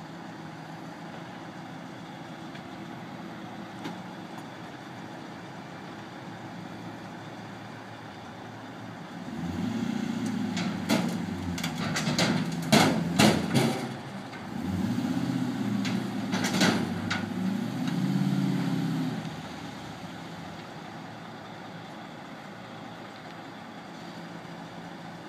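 A Dodge Challenger's engine revving up and down as the car is driven up the steel loading ramps of a car-carrier trailer, loudest for about ten seconds in the middle. Several sharp metal clanks come as its wheels cross the ramps. A steady engine idle hums before and after.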